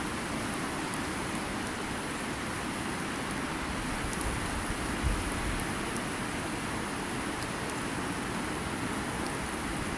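Wood campfire burning, with scattered sharp little crackles over a steady rushing background, and a brief low thump about five seconds in.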